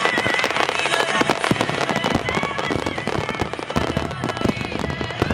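Fireworks display: a dense, unbroken barrage of bangs and crackles, many shells bursting in quick succession.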